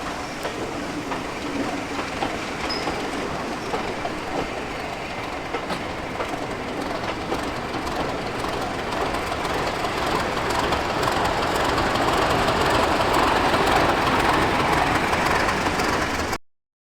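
Train running on the rails, with wheels clattering over the track. It grows louder over the last several seconds, then cuts off abruptly near the end.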